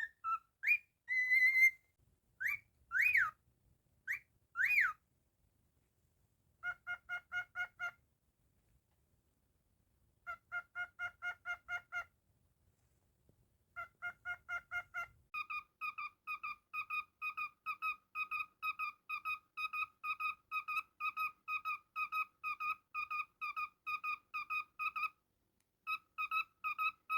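A cockatiel whistling. First come a few swooping rising-and-falling whistles, then runs of short, evenly repeated notes at about five a second, a long unbroken run making up the second half.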